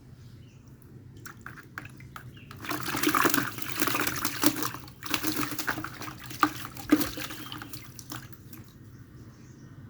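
Water splashing as a wild black-naped oriole is soaked in a bath to tame it, heaviest from about two and a half to five seconds in, then scattered splashes and drips.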